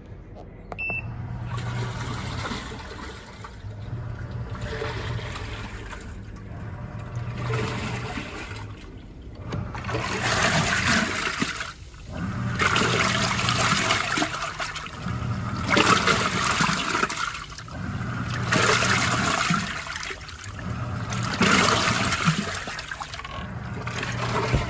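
Rovsun compact washing machine starting its wash cycle. A short beep comes about a second in, then the motor hums and the water churns in the stainless steel tub in surges every two to three seconds as the wash action reverses back and forth. The surges grow louder about ten seconds in.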